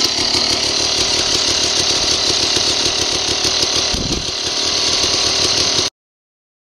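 Dirt bike engine running steadily with a fast, even rasp, then cutting off suddenly about six seconds in.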